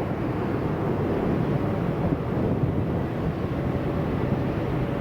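Airbus A380-800 arriving, its four jet engines giving a steady low rumble.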